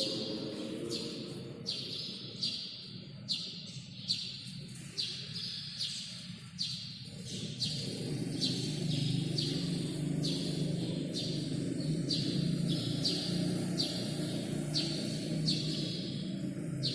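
A sparrow chirping over and over in short, sharp chirps, about one or two a second, with a steady low hum in the background that grows louder about halfway through.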